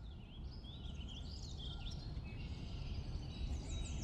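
Several songbirds chirping and singing over a steady low background rumble, gradually growing louder, with a quick run of high notes near the end.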